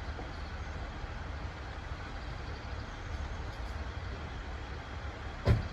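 Steady low rumble of an idling diesel railcar at the platform, with one sharp knock near the end.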